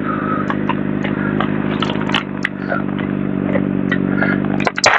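Sportbike engine idling steadily at a standstill, with scattered clicks and scraping close to the microphone and a few sharp knocks near the end.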